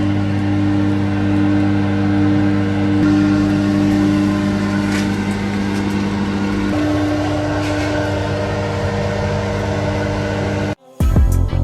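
A steady low machine hum of even, unchanging tones. Part of the tone drops out about two-thirds of the way through. It cuts off abruptly near the end.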